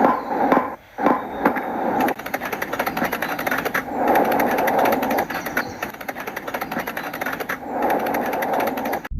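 Small DC motor of a homemade toy machine running with a fast, even chatter, swelling louder and softer every few seconds.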